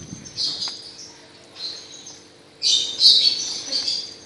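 Small birds chirping in short, high, chattering bursts, with a longer, louder run past the middle.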